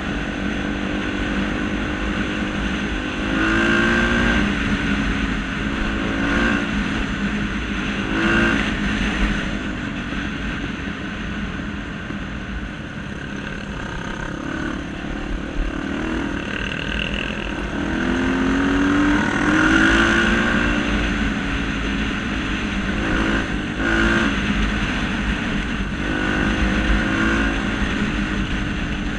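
Motor vehicle engine running and revving repeatedly, its pitch climbing and dropping back several times.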